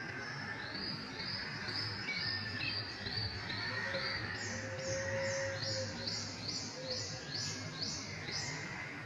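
A bird singing a long series of identical high notes, about two a second, that steps up to a higher pitch about halfway through.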